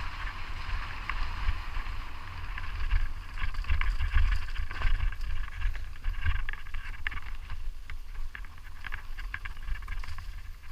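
Wind buffeting the microphone, over a steady hiss and dense, irregular crackling clicks from moving fast over rough, stony ground.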